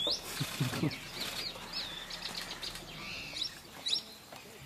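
Wild birds chirping and calling: a steady run of short, quick chirps, many sliding up or down in pitch.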